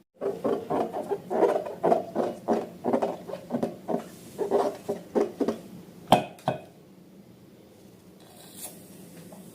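A quick run of short rubbing and squishing sounds from slime and balloons being handled, with a sharp click about six seconds in, then it quiets down.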